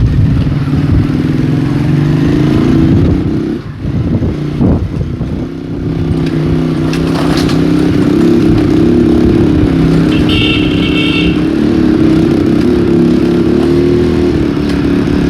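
Small motor vehicle engine running at a steady pitch, dipping briefly about four seconds in. A short high-pitched tone sounds about ten seconds in.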